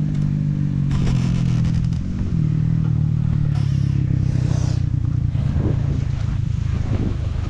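KTM 65 two-stroke dirt bike engine running under way. Its pitch drops in steps over the first couple of seconds, then holds fairly steady.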